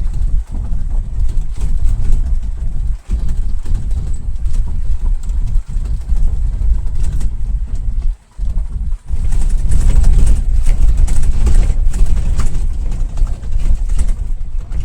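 Loud, steady low rumble of a taxi cab ride: road and engine noise, with the sound dropping out briefly a few times.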